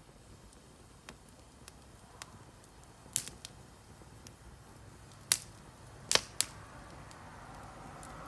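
Wood campfire crackling: scattered sharp pops, a few small ones at first, then louder ones about three seconds in and three more between five and six and a half seconds.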